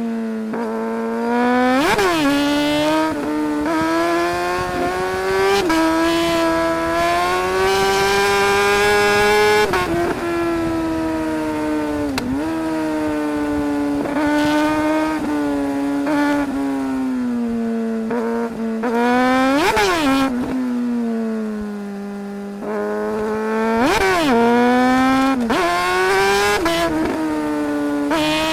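Suzuki GSR 600's inline-four engine heard from the rider's seat, its pitch climbing and falling as it accelerates and eases off. Its note is broken by several quick, sharp revs up and back down.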